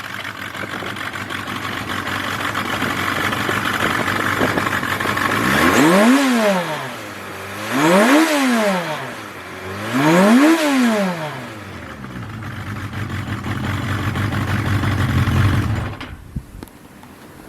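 Suzuki GSX1100S Katana's air-cooled inline-four, on Yoshimura TMR carburettors and a Kerker exhaust, idling and blipped three times in quick rises and falls of revs, then shut off near the end.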